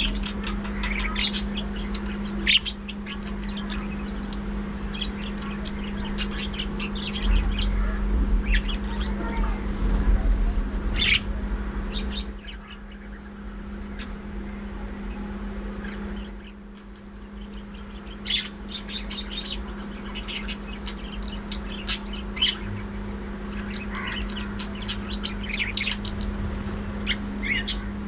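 A flock of budgerigars chirping and chattering in rapid, overlapping calls, over a steady low hum. The calls thin out for a few seconds midway, then pick up again.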